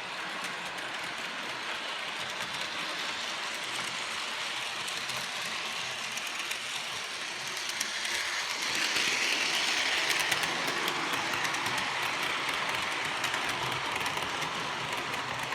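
Bachmann model locomotive of Edward running along model railway track with its coaches: a steady motor and wheel hum with fine rapid clicking from the wheels and rail joints, growing louder about halfway through as it comes close, then easing off slightly.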